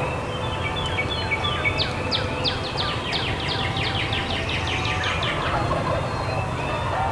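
Wild turkey tom gobbling: a fast run of short falling notes, about five a second, over a steady low hum.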